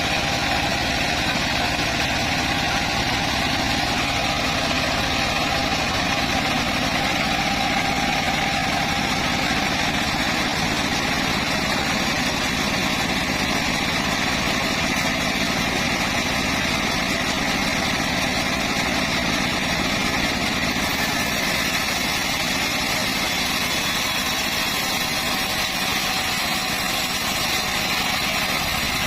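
Engine-driven homemade band sawmill (gergaji selendang) running steadily, its engine at a constant pace.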